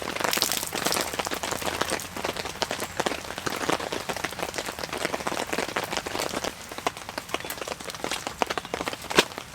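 Heavy rain pattering densely on a tent, a close spatter of many small drops, with one louder single drip shortly before the end.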